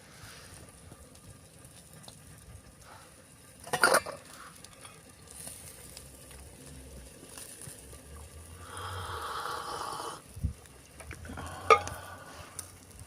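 Campfire cooking: faint sizzling with clinks and clatters of metal cookware, a sharp clatter about four seconds in, a steady hiss lasting about a second and a half near the middle, and another sharp clink near the end.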